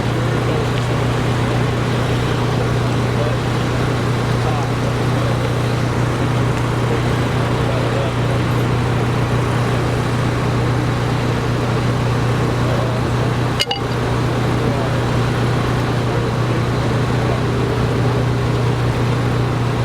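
Steady engine drone with a constant low hum under an even rushing noise, with a brief dropout about fourteen seconds in.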